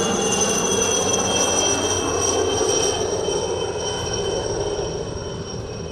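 IAR-316 (Alouette III) helicopter's Turbomeca Artouste turboshaft, a high turbine whine over steady engine and rotor noise. The whine sinks slowly in pitch and the sound eases off toward the end, as the helicopter moves away.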